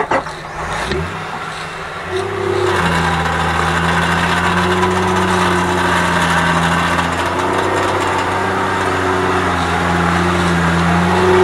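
UAZ off-road vehicle's engine running at steady revs, coming in louder about three seconds in and holding an even pitch.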